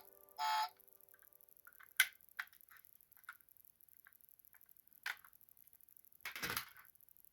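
A short musical tone right at the start, then scattered sharp clicks and taps, the loudest about two seconds in, and a brief rustle near the end: small toy cars and their packaging being handled.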